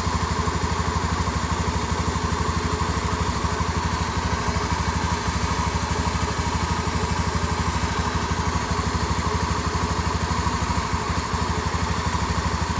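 Honda Beat FI scooter's single-cylinder engine idling steadily, with a rough hissing rustle over the idle like water about to boil in a pot. The owner suspects a rusty or worn crankshaft bearing.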